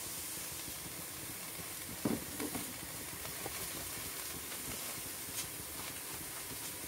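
Burger patties sizzling steadily on a hot pan or plate over a campfire, with faint ticks and a short knock about two seconds in.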